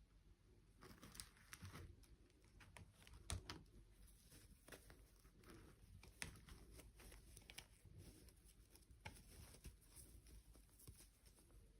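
Faint rustling and scattered small clicks and taps of objects being handled, with a few sharper ticks along the way.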